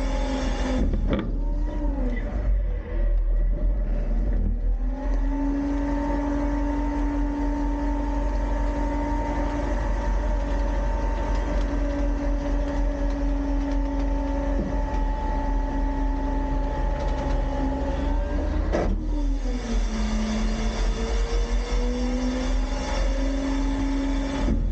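Autocar-Heil front-load garbage truck running with a steady mechanical whine. The pitch drops and climbs back twice, about a second in and again near the end.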